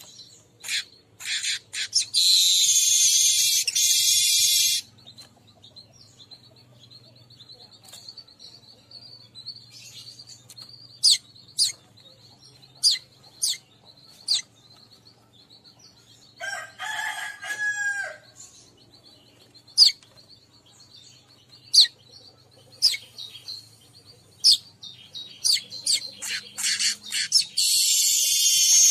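Weaver birds calling: short sharp chirps scattered throughout, with a loud, dense buzzy song of about two and a half seconds near the start and another of about a second and a half at the end. A lower call rises and falls for about a second and a half midway, over a faint steady high buzz.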